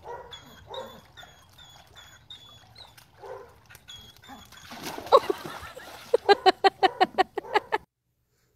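A dog whining in a string of short, high-pitched whimpers, about three a second, while it leans toward a ball floating just out of reach in a pool. Near the end comes a quicker run of short, louder sounds, about six a second, that stops abruptly.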